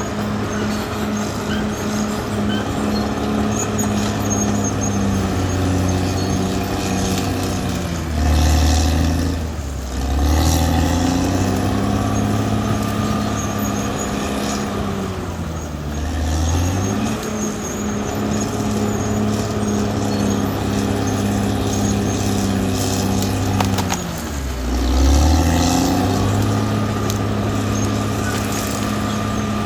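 Caterpillar D6R XL bulldozer's diesel engine running hard, its pitch sagging and then recovering about three times: around a third of the way in, about halfway, and past the two-thirds mark.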